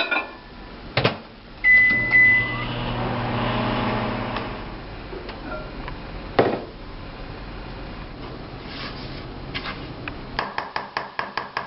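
An electric kitchen appliance gives a steady beep, then its motor hums for about three seconds and fades. A knock follows, and near the end comes a quick run of light clicks or taps.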